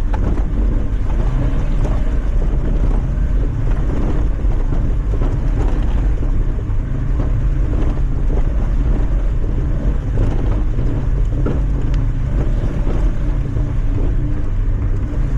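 Mazda MX5's four-cylinder engine running hard under full power on a steep trials climb, a steady low drone with frequent knocks and clatter over it and wind buffeting the microphone.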